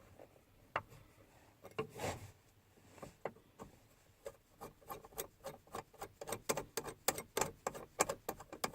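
Hands fitting something onto a truck's turn-signal lever: scattered clicks and rubbing, then rapid, irregular clicking of hard plastic and metal from about halfway through.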